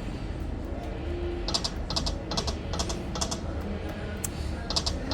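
Poker machine sounds: small clusters of short electronic clicks and chimes, several times from about a second and a half in, as the reels stop during the bonus feature, over a steady low venue background.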